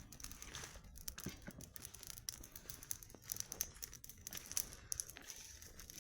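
Wood campfire crackling, with irregular sharp snaps.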